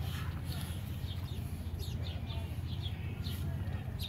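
Small birds chirping repeatedly in the background, many short high chirps over a steady low rumble.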